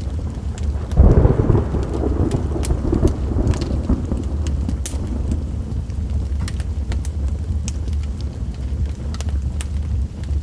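A thunderclap about a second in, rumbling and fading away over a few seconds, over steady rain, with the sharp pops and crackles of a wood fire throughout.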